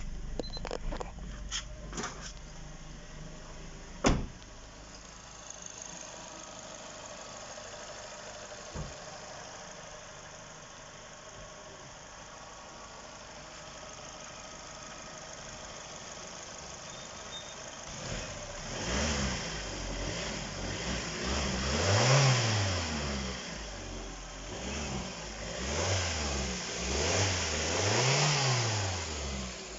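Suzuki Swift's K12B 1.2-litre four-cylinder petrol engine idling steadily just after a start, then revved in a series of throttle blips from about two-thirds in, two of them higher, dropping back toward idle at the end. A few clicks sound early on, with a sharp click about four seconds in.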